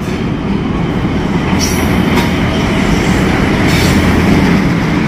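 Pakistan Railways diesel locomotive and its coaches pulling in along the platform: a loud, steady rumble of engine and wheels on the rails, with a few short high-pitched screeches about one and a half, two and nearly four seconds in.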